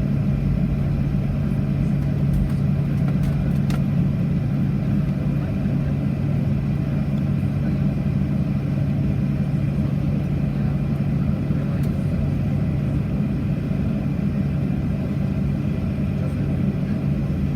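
Steady cabin noise inside a Boeing 737-800 on the ground after landing: a constant low hum and rumble from the idling engines and cabin air, with a few faint clicks.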